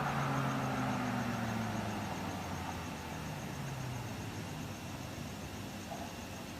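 BMW M6 exhaust through an iPE valved exhaust system, the engine note falling and fading as the revs drop back, then settling into a quieter steady sound.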